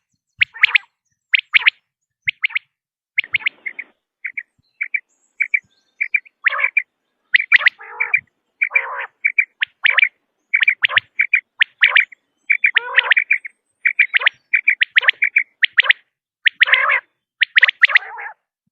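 Common quail calling over and over: short, sharp notes in quick clusters of two or three, with barely a pause between clusters.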